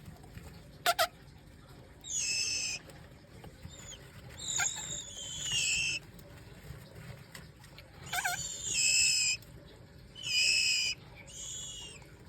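Birds giving harsh, high-pitched calls: about five of them, each between half a second and a second and a half long, with a short sharp chirp about a second in.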